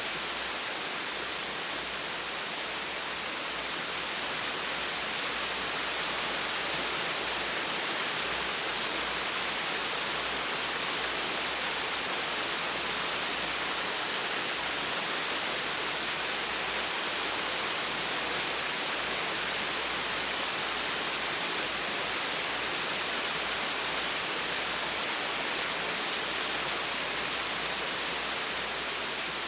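Gentle waterfall: falling water rushing and splashing in an even, unbroken hiss.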